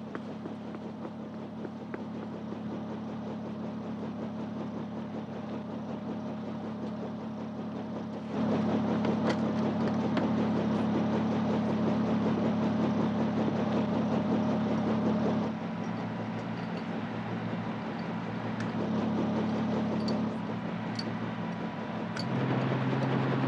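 Steady drone of engines, with low, even tones. It steps abruptly louder or softer and shifts pitch at sudden cuts: about eight seconds in, about fifteen seconds in, and twice more near the end.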